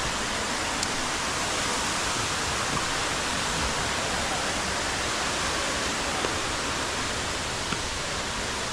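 Steady rushing of Jhari waterfall, an even roar of falling water with no change in level.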